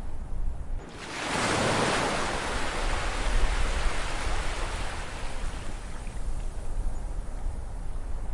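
An ocean wave breaking about a second in, its wash fading away over the next few seconds, over a steady low rumble of surf.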